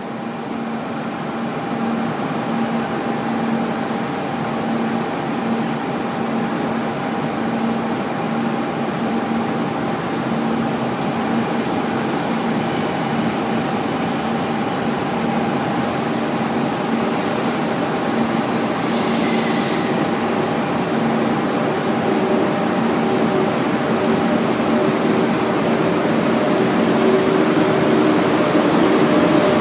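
EF81 electric locomotive hauling a container freight train, approaching slowly and passing close by, its running noise growing steadily louder. Two short hisses come about two-thirds of the way through.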